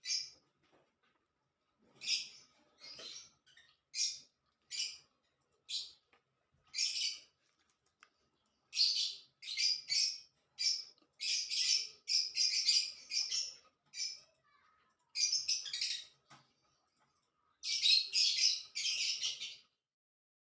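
Pet cockatiel calling: a string of short, raspy, high-pitched chirps, some spaced out and some in quick runs in the middle and near the end.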